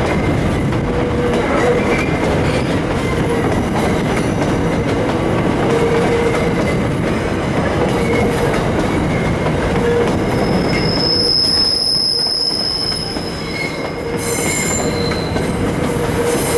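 A Queensland Rail coal train of empty wagons rolling past, its wheels running on the rails as a steady, loud rumble. High-pitched wheel squeal rings out about eleven seconds in, and several squealing tones join near the end.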